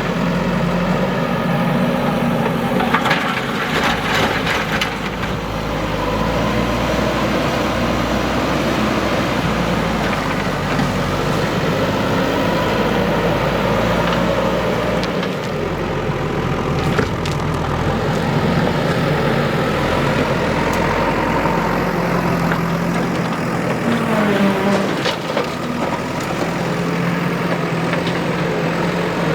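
Backhoe loader's diesel engine running steadily under work, with scattered clattering knocks, likely from the bucket and linkage, and a brief dip and rise in engine pitch about 24 seconds in.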